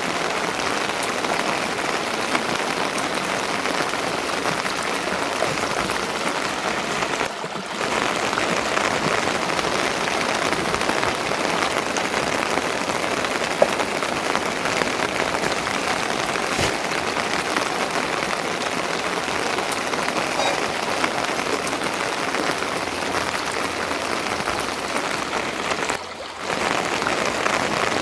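Steady rain falling, an even dense patter that dips briefly twice.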